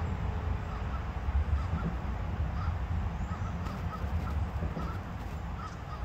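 Birds calling outdoors: many short calls repeated irregularly, over a steady low rumble.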